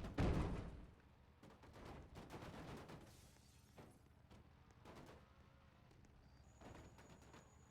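A single heavy, deep thud at the very start, then fainter scuffing and a few sharp clicks.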